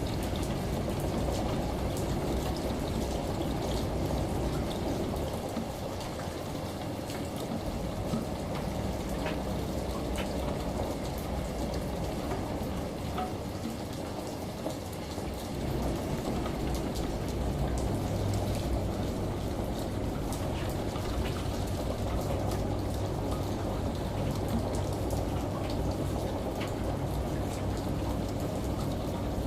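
Steady rain and running shower water layered into one continuous hiss of water. A low washing-machine hum comes in a little past halfway, after a slight dip in the overall level.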